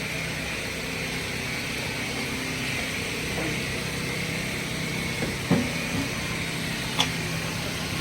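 Steady mechanical hum of heavy machinery running, with a short knock about five and a half seconds in and a sharper click about seven seconds in.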